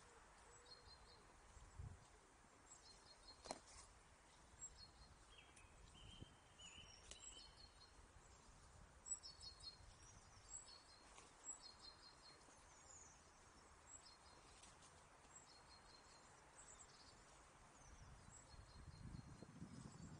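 Faint, scattered calls of small songbirds: short high chirps, often in quick runs of three or four notes, over a quiet background hiss. A low rustling starts near the end.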